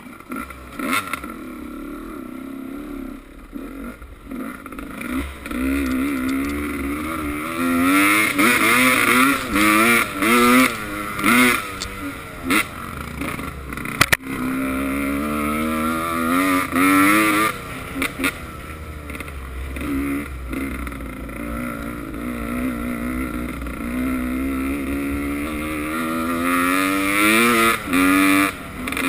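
Motocross dirt bike engines revving, the pitch climbing and dropping again and again as the riders open and close the throttle, with a sharp knock about halfway through.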